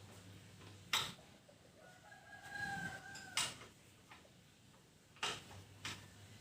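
A rooster crowing once, about two seconds in, a single drawn-out call. Around it come several sharp knocks, the loudest sounds, about a second in, near the middle and twice near the end.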